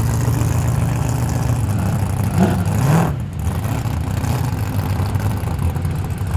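Big-block 440 cubic inch V8 engine idling, with a short rise and fall in pitch about two and a half to three seconds in.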